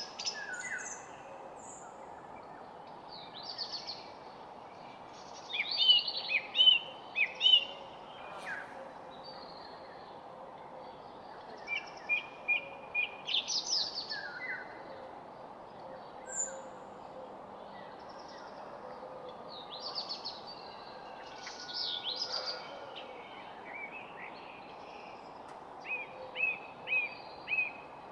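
Songbirds singing: clusters of short chirps and quick repeated notes every few seconds over a steady background hiss.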